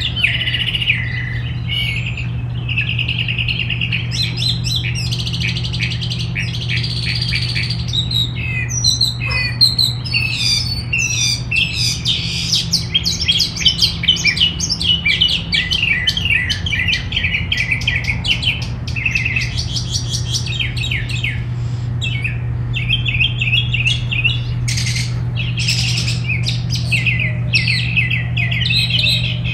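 Several songbirds chirping and trilling busily, with calls overlapping in rapid runs. A steady low hum runs underneath.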